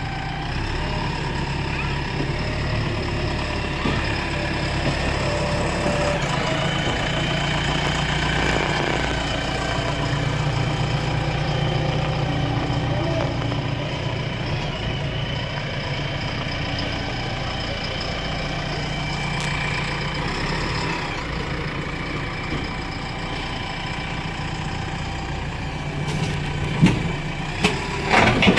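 JCB backhoe loader's diesel engine idling steadily, with a few sharp knocks near the end.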